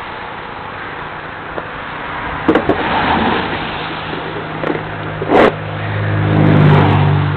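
An engine running, steady in pitch, coming in about three seconds in and growing louder toward the end, with a few sharp knocks over a hiss.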